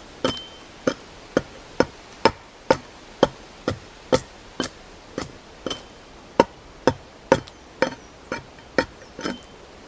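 Axe hewing the debarked side of a log: a steady run of sharp chopping strikes, about two a second, splitting off wood chips.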